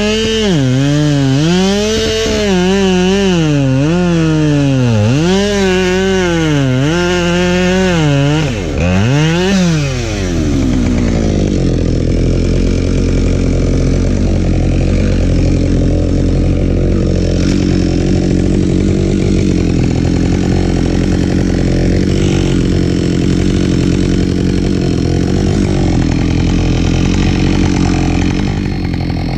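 Husqvarna 572XP two-stroke chainsaw running hard, its engine pitch rising and dipping over and over, about every second and a half. About ten seconds in it gives way to a steadier, lower engine drone.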